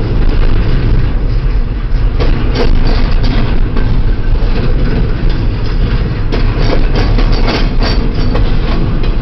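Freight train of double-stack intermodal well cars rolling past, a loud steady rumble of steel wheels on the rails with frequent irregular clanks and clicks.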